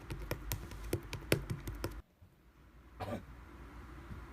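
A quick run of sharp, irregular clicks or taps over the first two seconds, then a brief dropout, and a short cough-like throat sound about three seconds in.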